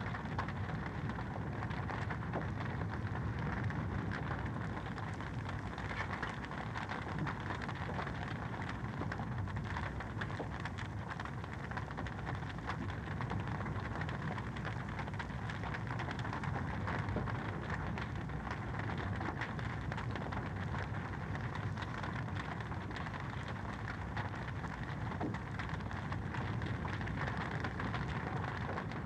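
Wood fire crackling in a fireplace: a steady low rush of burning with many small pops and snaps.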